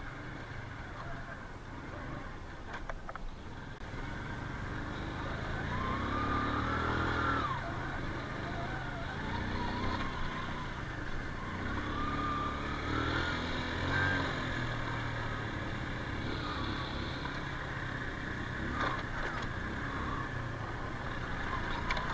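Honda Super Cub's small single-cylinder four-stroke engine running as the bike is ridden, its pitch rising and falling with the throttle.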